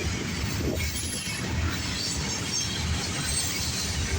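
CSX freight train's cars rolling past, a steady rumble of steel wheels on rail.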